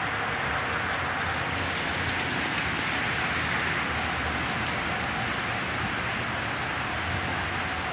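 Heavy downpour: a steady, dense hiss of rain, with a few faint ticks.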